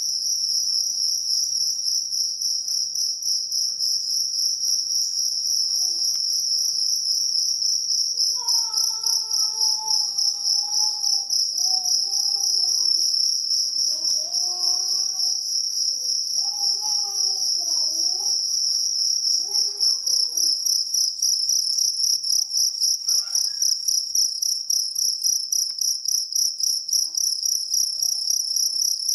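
Jangkrik kalung (two-spotted field cricket) calling: a loud, steady, rapidly pulsed high chirping that goes on without a break.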